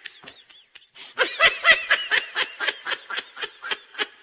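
High-pitched laughter, a fast run of 'ha-ha-ha' pulses, about five or six a second, starting about a second in after a brief softer chuckle.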